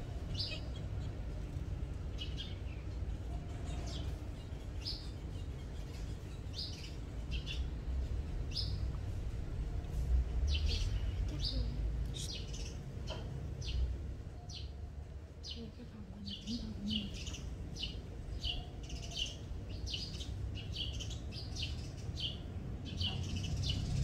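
Birds chirping: short, high repeated chirps, sparse at first and coming thick and fast through the second half, over a low background rumble.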